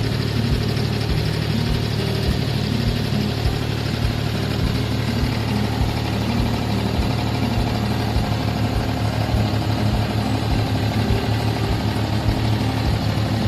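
Abra water taxi's diesel engine running steadily on the crossing, a constant low drone with a regular low throb.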